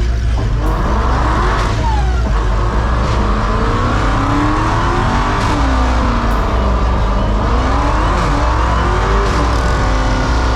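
Car engines revving up and down again and again over a steady low engine rumble.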